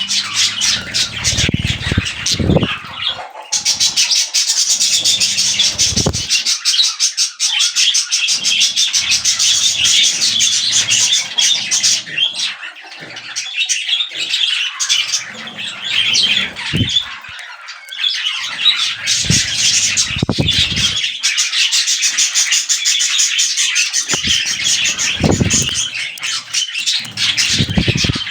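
Budgerigars chattering and warbling continuously in rapid, scratchy trills, with a few low bumps mixed in.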